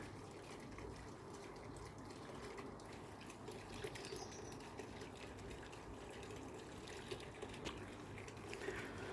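Faint outdoor evening ambience: a low steady hiss of background noise with a few faint ticks.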